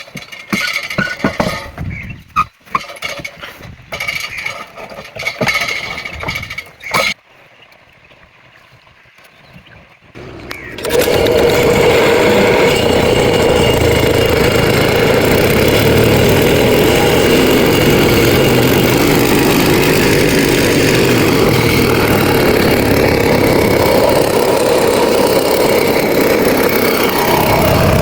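A small engine is started: after irregular, stop-start noises in the first seven seconds and a short lull, it catches about eleven seconds in and then runs loud and steady at a constant speed.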